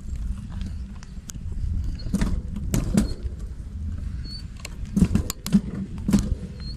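A bicycle being ridden: a steady low rumble of wind and rolling under scattered rattling clicks and knocks, heaviest about two to three seconds in and again about five to six seconds in.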